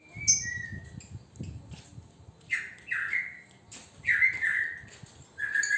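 Male lovebird giving short, sharp chirping calls, several in quick pairs, with a low rustling in the first two seconds.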